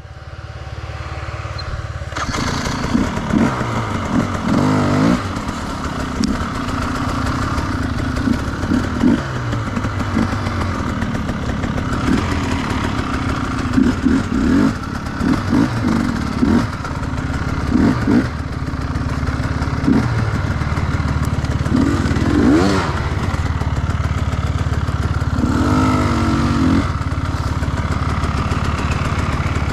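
Enduro motorcycle engine running and revving, its pitch rising and falling over and over with throttle blips. The engine comes up about two seconds in.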